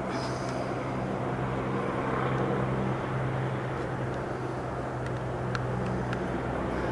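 An engine running steadily at a low, even hum, with a few faint clicks.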